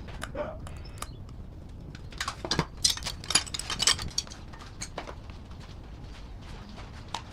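Metal parts and tools clinking and clicking as they are handled, with a quick cluster of sharp clinks about two to four seconds in and a few scattered ticks either side.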